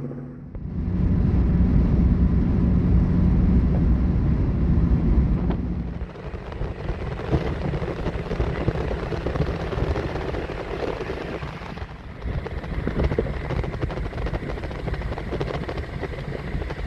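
Car on the road: a steady rumble of road and wind noise, heavier and louder for the first five seconds or so, then a quieter, even rushing hiss.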